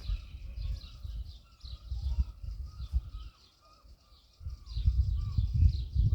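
Small birds chirping over and over, with short whistled notes among the chirps. A loud gusty low rumble comes and goes beneath them, dropping away for about a second in the middle.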